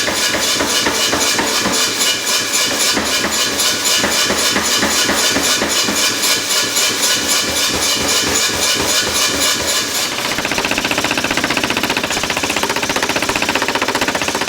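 Steel being forged under rapid, regular hammer blows, about five a second, changing to a faster, lighter rhythm about ten seconds in.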